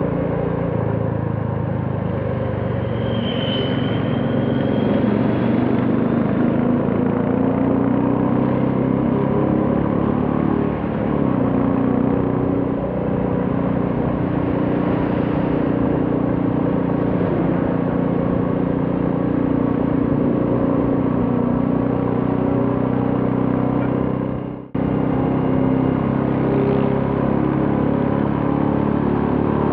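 Royal Enfield Classic 350 single-cylinder engine running steadily while riding on the road, its pitch drifting gently with speed, under road noise. The sound drops out sharply for a moment about three-quarters of the way through.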